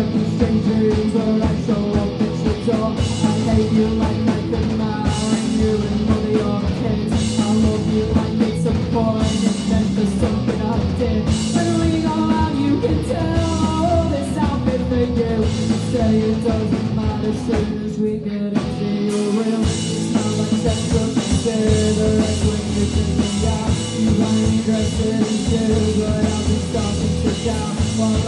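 Live rock band playing with drums. About eighteen seconds in, the bass and drums drop out for a moment before the full band comes back in.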